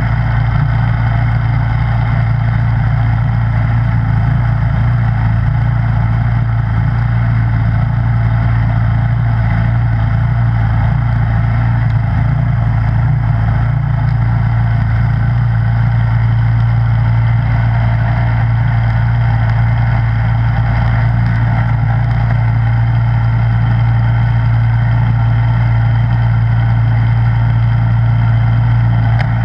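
Snowblower engine running steadily at a constant speed, a continuous low drone with no change in pitch or level.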